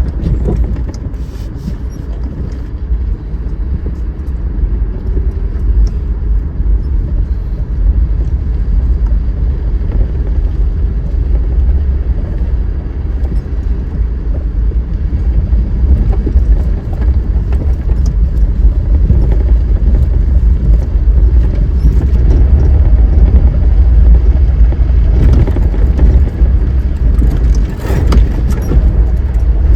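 A car driving on a dirt trail: a steady low rumble of engine and tyres with scattered short ticks and rattles, growing somewhat louder over the second half.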